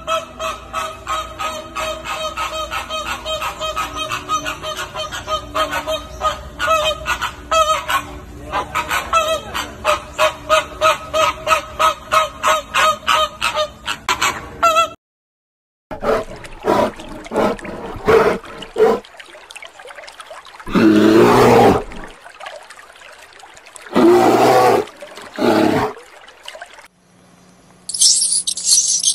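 Animal calls from several clips in turn. First comes a quick, regular run of honking calls, several a second, for about fifteen seconds. After a brief silence a different animal gives louder, harsher calls in irregular bursts. Near the end a high-pitched squeaking starts.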